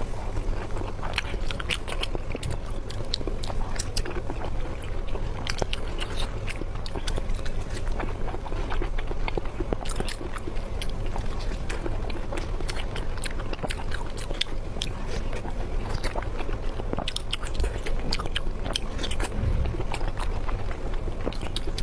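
Close-miked eating: a person chewing and biting food, with a steady stream of small sharp mouth clicks and smacks.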